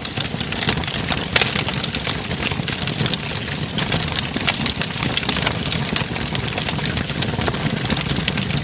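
Wood fire burning in a fireplace, crackling with many small pops and snaps over a steady low rumble.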